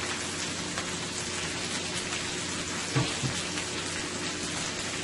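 Chicken with freshly added ginger and garlic sizzling steadily in a hot skillet during a stir-fry. Two soft knocks come about three seconds in.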